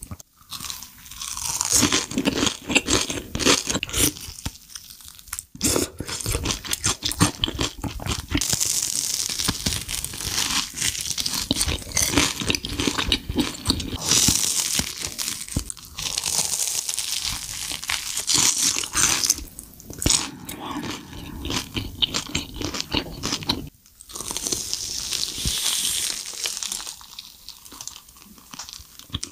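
Close-miked crunching bites and chewing of deep-fried cheese corn dogs coated in crushed Hot Cheetos: dense, crackly crunches that keep going, with brief lulls about five seconds in and near the end.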